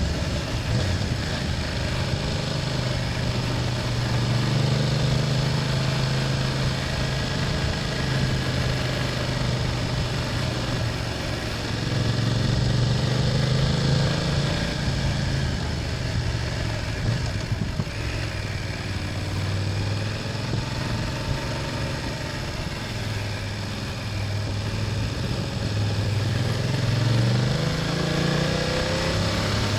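BMW F800GS parallel-twin engine running on the move, its note rising and falling with the throttle, over steady wind and road noise.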